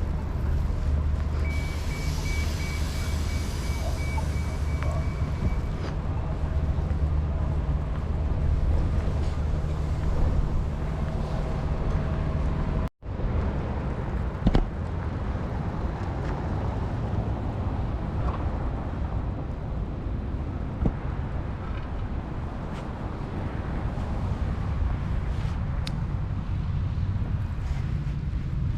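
City street traffic: a steady low rumble of passing vehicles. A high electronic beep repeats about twice a second for several seconds near the start, and the sound drops out for an instant about halfway through.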